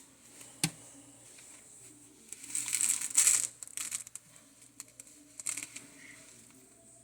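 Red-footed tortoise biting and tearing at raw beef with its beak: a sharp click about half a second in, then bursts of crackling and tearing around three seconds in and again briefly near five and a half seconds.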